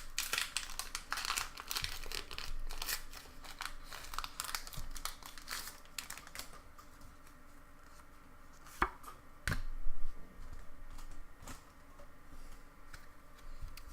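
Foil Pokémon booster pack wrapper crinkling and being torn open, dense and crackly for the first six seconds or so. Then quieter card handling with a few sharp knocks, the loudest about ten seconds in.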